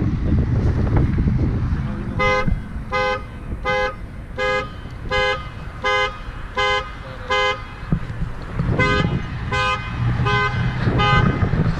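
Car horn honking in short, evenly spaced pulses, about four every three seconds, the pattern of a car alarm going off. After eight honks it pauses briefly, then starts again. A low rumble runs underneath.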